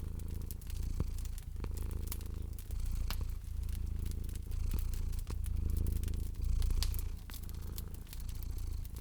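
Domestic cat purring, a low rumble that swells and eases about once a second with its breathing, over the frequent small snaps and pops of a crackling wood fire.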